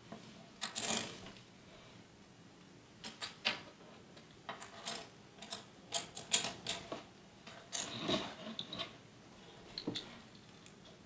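Irregular light clicks, taps and short rustles of small plastic parts and wiring being handled and fitted by hand.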